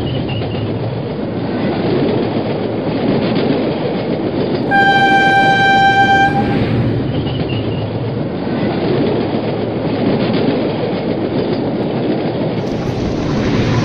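Passenger train running at speed, heard from a coach window: a steady rumble of wheels on the rails and rushing air. About five seconds in, a train horn sounds one steady note for about two seconds.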